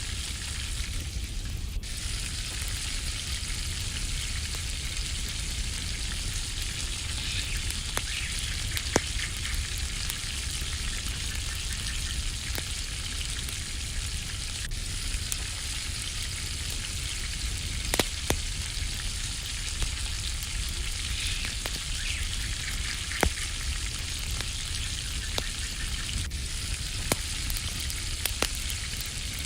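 Garlic almonds sizzling in a pan over a campfire: a steady frying sizzle with scattered sharp pops.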